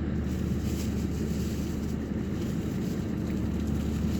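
Steady low engine hum with a faint constant tone and wind noise, unchanging throughout.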